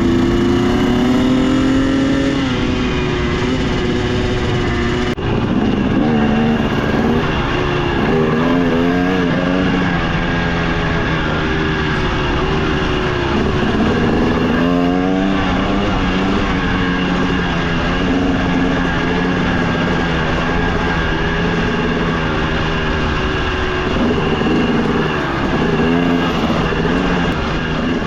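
A 300 cc single-cylinder two-stroke dirt bike engine (KTM 300 XC TBI) running while the bike is ridden. Its pitch rises and falls again and again as the throttle is opened and eased off.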